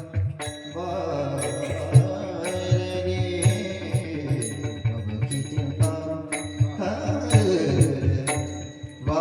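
Varkari kirtan accompaniment: a sustained melody over a steady beat of low drum strokes and regular cymbal strikes.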